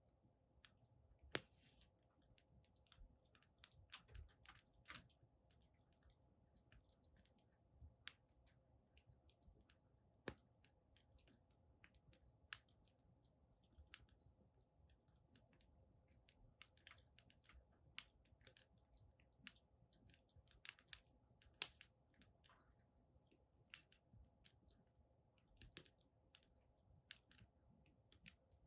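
Wood fire burning in a fire pit, crackling faintly with irregular sharp pops, the loudest about a second and a half in.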